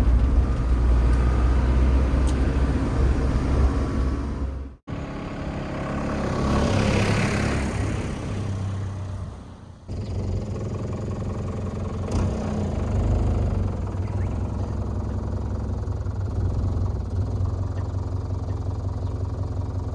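Camper bus engine running and road noise while driving, a steady low hum that breaks off abruptly twice, about five and ten seconds in. A hissing swell rises and fades between the two breaks.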